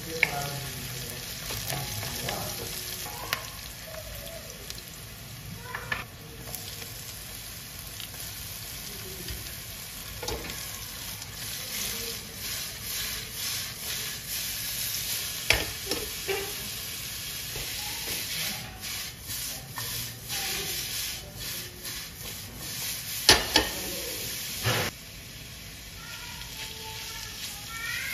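Fiddlehead ferns and onions frying in a stainless steel wok: steady sizzling, with the wooden spatula scraping and clicking as it stirs. A few sharp knocks of the spatula on the pan come a few seconds before the end, and the sizzling then drops away.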